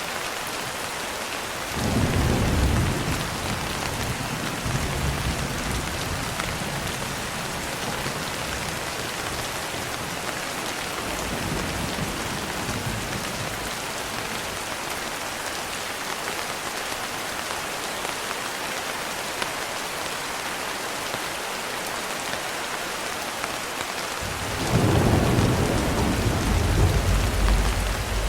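Steady rain with rolling thunder. One rumble comes about two seconds in, a fainter one near the middle, and a louder, longer one starts near the end.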